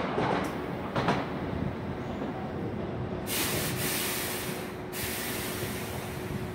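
Hankyu 1000 series electric train pulling away into the distance, its running rumble slowly fading, with a single clack about a second in. A hiss lasting about a second and a half rises and stops suddenly a little past the middle.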